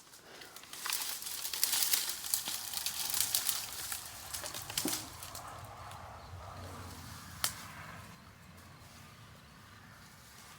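Dry brush and branches crackling and rustling as they are handled and dragged, busiest in the first half, then fading to faint rustling with one sharp snap about three quarters of the way through.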